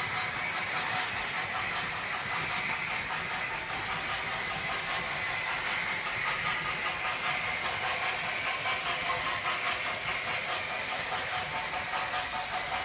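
Model train layout running: small electric motors whirring and wheels rolling on track, with a steady high whine that rises and falls slightly in pitch.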